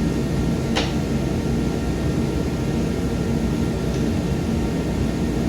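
Garage heater running with a steady loud whooshing hum. One sharp click sounds about a second in.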